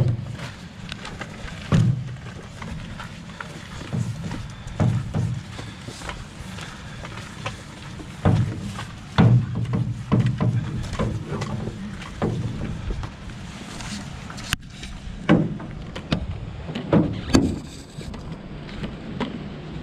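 Footsteps and knocks of people walking a portage trail while carrying a canoe: irregular dull thumps every second or two, with rustling in between.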